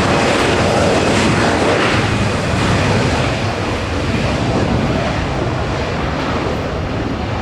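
Jet airliner's engines, a loud steady rush of noise that slowly fades as the aircraft passes.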